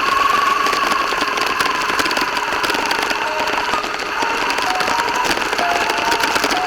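An RC car's drivetrain whines steadily as it drives, over a dense rattling of tyres and chassis. The whine dips and wavers in pitch partway through as the speed changes.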